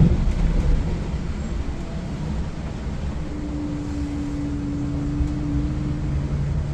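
Volvo B8R diesel engine of a Volvo 9600 coach running steadily under load on a ghat climb, a deep continuous rumble. A steady hum joins in about three seconds in and fades out about three seconds later.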